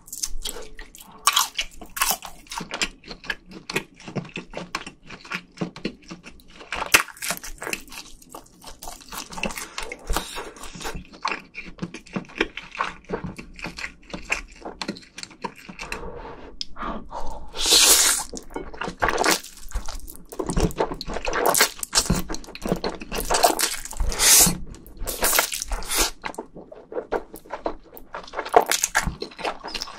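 Close-miked eating: biting into a fish-cake skewer and chewing, with a steady run of wet mouth clicks and smacks. Several louder breathy bursts come in the second half.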